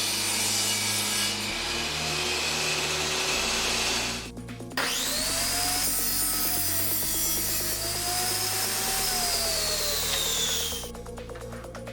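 Electric power tool working wood, a motor whine over a rough cutting noise. It stops for a moment about four seconds in, spins back up with a rising whine and runs until near the end, with background music underneath.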